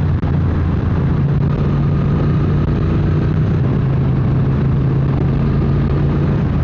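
Triumph Speed Twin 900's parallel-twin engine running while riding. Just after the start the sound briefly drops, then the engine holds one steady note.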